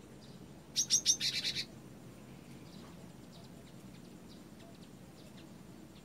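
Cinereous tit (gelatik batu) calling: a few sharp, high notes followed by a quick buzzy rattle, about a second long, then faint scattered chirps.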